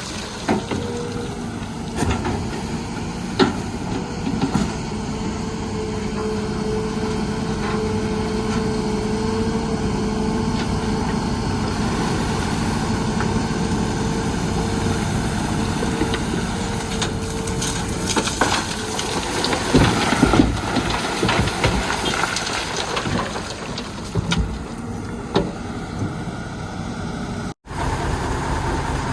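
Diesel engine of a Hitachi Zaxis 210 excavator running steadily under load while it loads sand and rock, with scattered clunks and knocks. It drops out for a split second near the end.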